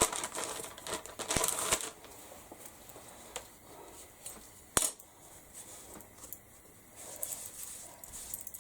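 Craft supplies being tidied on a work surface: rustling and crinkling, with a few sharp clicks of small hard items set down, the loudest near the start and about halfway through.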